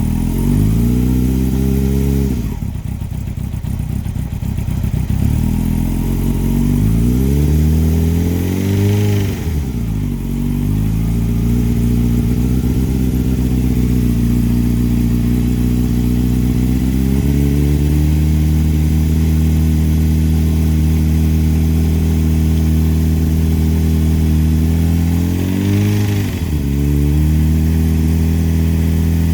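2003 Yamaha R1's inline-four engine being revved and let fall back several times, then held at a steady raised speed, with a quick blip near the end. It knocks from a failed big end bearing on cylinder number 4.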